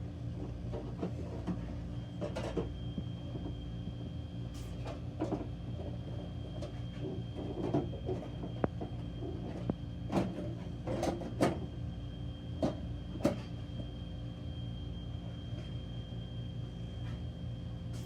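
Irregular knocks and light clatters of a metal cover and parts being handled and fitted back onto a Blizzard machine's motor, over a steady background hum.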